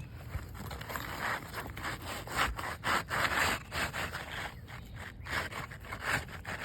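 Irregular rasping scrapes, a few a second, of hands and tools working against asphalt roof shingles.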